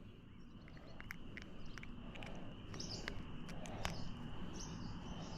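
Riverside outdoor ambience: a steady high insect trill with a few short bird chirps over a low background rumble, and a few faint clicks.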